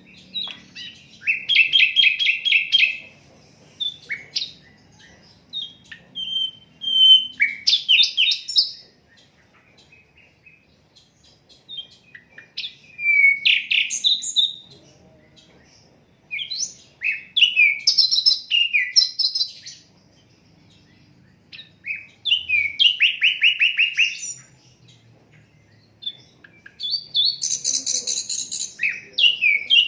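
A sikatan londo flycatcher singing in short phrases of quick, repeated chirping notes and trills, each one to three seconds long. The phrases come every few seconds with brief pauses between them.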